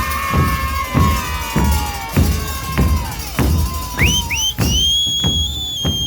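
Murga bombos con platillo beating a steady rhythm, with a lower held tone slowly sinking in pitch in the first half, then two short whistle blasts and a long high whistle blast near the end.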